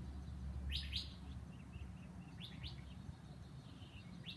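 A small bird chirping in quick pairs of short high notes, about three times, over a low steady hum.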